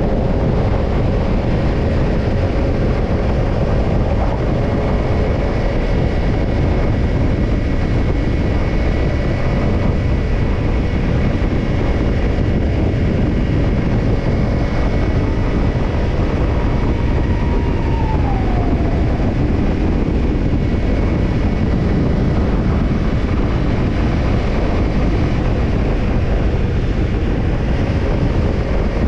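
Kawasaki Ninja 250 parallel-twin engine running steadily at an even pace through a BEET Nassert Evolution Type II titanium slip-on muffler.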